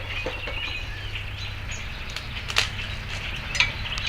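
Birds chirping outdoors over a low steady hum, with a few sharp clicks, the loudest about two and a half seconds in.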